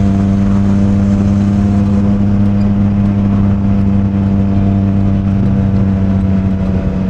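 Motorcycle engine running at steady, unchanging revs while cruising, with road and wind noise beneath it.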